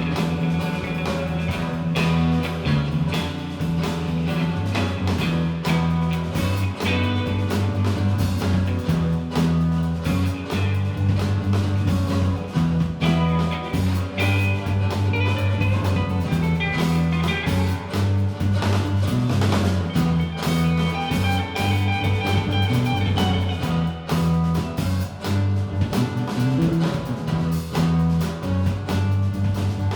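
Live band playing a long instrumental jam in a blues-rock vein: a repeating bass line under guitar and drums.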